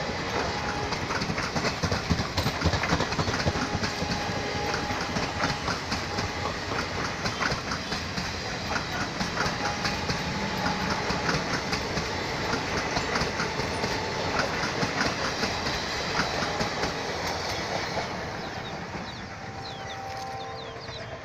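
Amaravathi Express passenger train passing at speed, its wheels clicking rhythmically over the rail joints under a steady rumble. The sound fades about eighteen seconds in as the last coaches go by.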